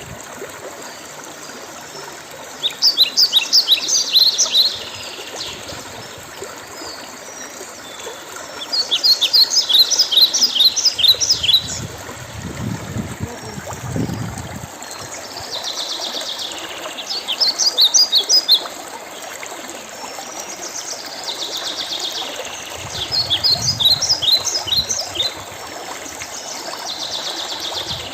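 A songbird singing four loud phrases of rapid, high, quickly repeated notes, each about two seconds long and spaced several seconds apart, with a buzzy trill in the gaps between them. Water trickles steadily underneath.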